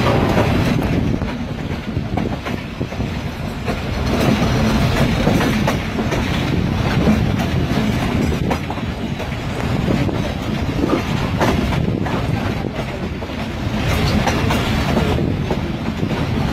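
Passenger train coaches running along the track, heard from aboard the moving train: steady wheel and rail noise with occasional clicks of the wheels over rail joints.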